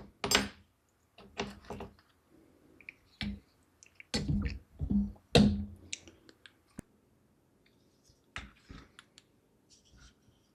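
Irregular knocks and clicks of computer hardware being handled and set down, about a dozen separate taps. The loudest are about half a second in and between four and six seconds in.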